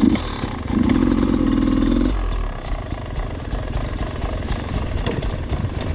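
Dirt bike engine running on the trail, rising to a steady higher note for about a second and then easing off. A stream of short clicks and knocks runs alongside it.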